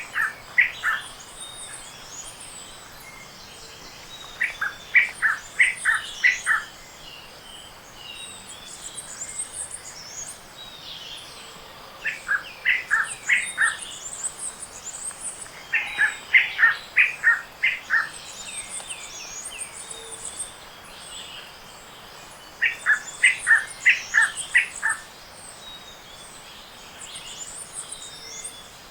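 Tropical forest dawn chorus: one bird repeats a quick series of six to eight loud, short notes lasting about two seconds, five times, a few seconds apart, over steady thin high-pitched calls of other birds.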